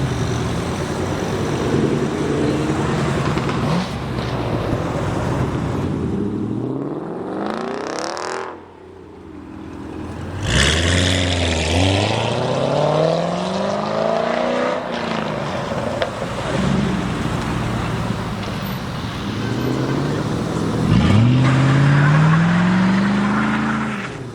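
Car engine revving hard in several rising runs, its pitch climbing and falling back, with a short lull about eight seconds in.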